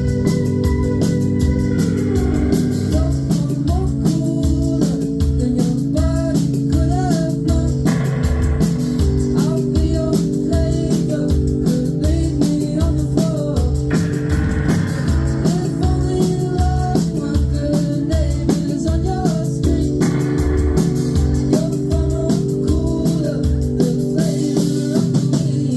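Live indie rock band playing a song: electric guitar over bass and drums with a steady beat.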